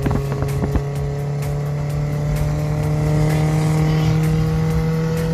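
Toyota 3SZ 1.5-litre DOHC four-cylinder engine fitted in a VW bus, running with its revs climbing slowly and steadily. There are a few sharp clicks in the first second.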